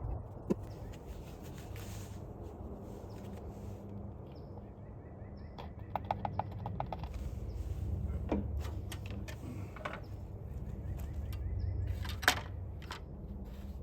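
Handling noises while new oil is added to a riding mower's engine through a funnel: a quick run of light clicks about halfway through and a couple of sharp knocks, over a low steady rumble.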